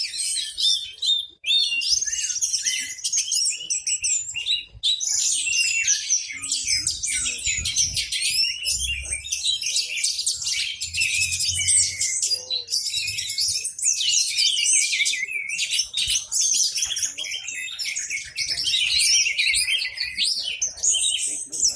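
Orange-headed thrush singing a loud, continuous, rapidly varied song of whistles and trills, with other songbirds chirping along.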